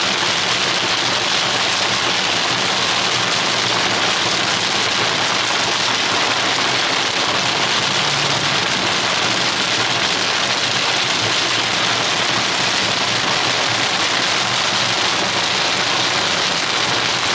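Torrential downpour: heavy rain falling steadily as a dense, even hiss.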